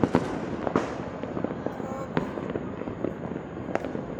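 Fireworks and firecrackers popping and banging without a break, dense and irregular, with a few sharper cracks standing out: at the start, about a second in, around two seconds and near the end.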